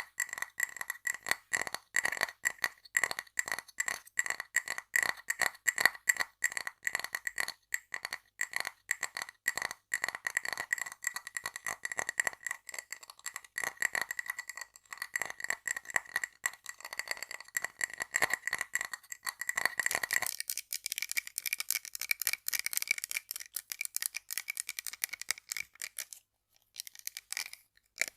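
Very rapid tapping on small hard objects, one of them ringing with a steady pitched tone under the taps. About twenty seconds in it switches to a brighter, slightly higher-ringing object. The tapping pauses briefly near the end.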